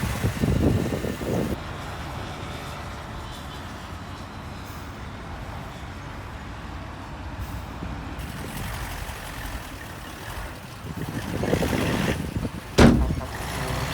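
Heavy diesel earthmoving machinery running: louder at the start, steadier and quieter through the middle, then rising again, with one sharp bang near the end.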